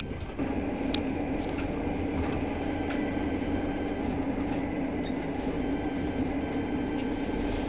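Steady running noise of a passenger train heard from inside the coach, its wheels rolling on the rails. It steps up abruptly about half a second in, then holds steady with a constant hum.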